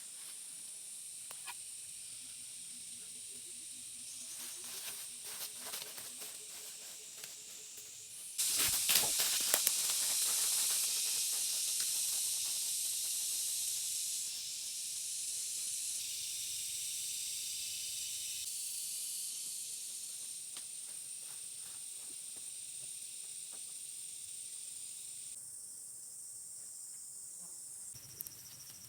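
Steady high-pitched hiss of outdoor ambience that jumps much louder about eight seconds in, then changes abruptly in level and tone several times.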